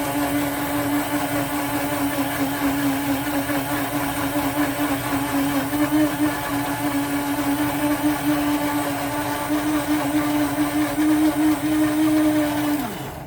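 Electric grinder motor running steadily under load as it chops garlic and curly parsley into a paste without water. Near the end it is switched off and the motor winds down, its pitch falling.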